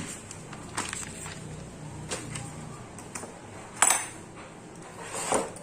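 Hard objects being handled during the unboxing of a cordless hammer drill kit: a few separate clicks and knocks, the sharpest about four seconds in, then a longer rustling knock near the end.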